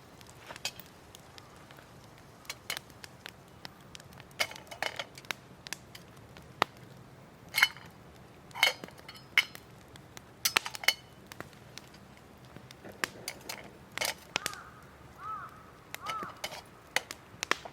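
Irregular clinks and knocks of tableware being handled, a few of them ringing briefly like metal or glass.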